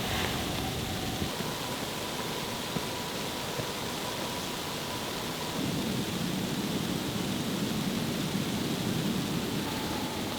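Steady wash of wind and precipitation noise in a snowstorm, with a low rumble swelling in about halfway through.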